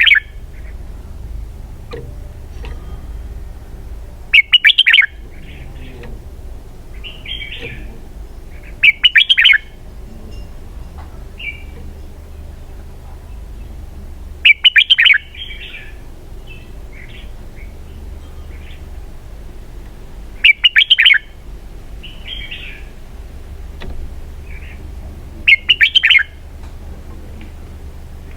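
Red-whiskered bulbul singing: five short, loud, warbling song phrases about every five seconds, with softer chirps in between. Its song style is the prized 'double-twist' (xoắn kép).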